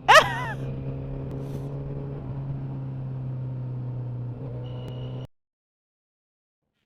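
Motorcycle engine running at a steady speed with road noise, after a brief sharp rising sweep at the very start. The sound cuts off suddenly about five seconds in, leaving dead silence.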